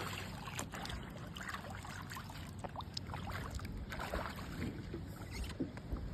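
Water lapping and splashing around a kayak, with scattered small splashes, while a hooked bass is fought at the boat.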